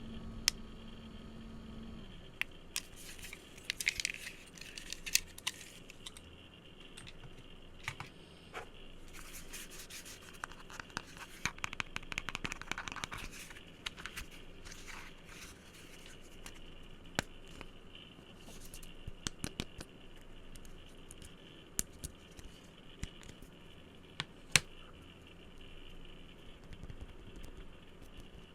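Fingers tapping, touching and scratching assorted objects close to the microphone: scattered sharp taps and clicks, with stretches of scratchy rustling at about three to six seconds in and again from about nine to fourteen seconds in.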